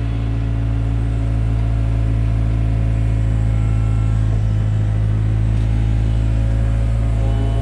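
Takeuchi TB175 excavator's diesel engine running at a steady speed while digging, a loud even drone with a strong low hum.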